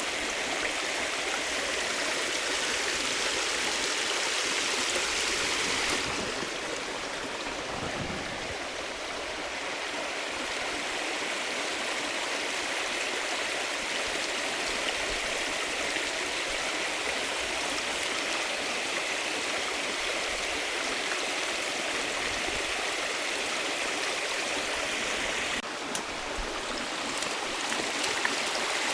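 Flowing river water running steadily, a dense rushing sound whose brightness changes abruptly about six seconds in and again near the end, with a few faint knocks near the end.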